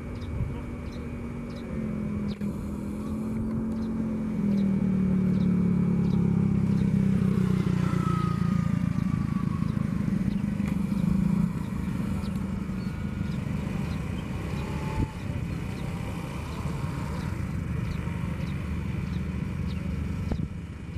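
CR400AF-based high-speed inspection train rolling slowly on the track, with a steady low rumble and hum that swells from about four seconds in and eases off after about eleven seconds.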